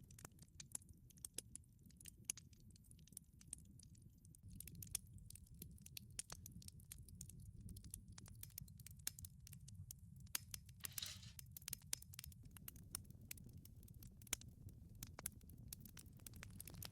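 Wood fire burning in a wood-fired pizza oven: irregular sharp crackles and pops over a low steady rumble of the flames, with a brief hiss about two-thirds of the way through.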